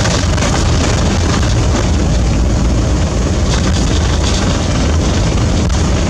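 A van driving on a snowy mountain road: a steady, loud rumble of engine and tyre noise.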